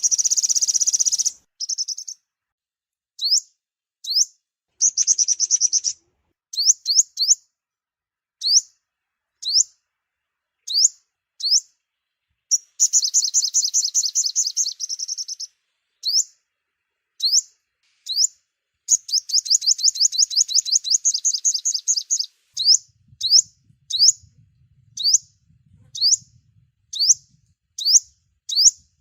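Sunbird calling: short, high, upward-flicking chips about once a second, broken three times by rapid high trills that last two to three seconds each.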